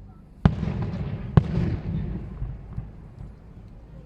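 Two firework bursts about a second apart, each a sharp bang followed by a rolling rumble that fades away over the next couple of seconds.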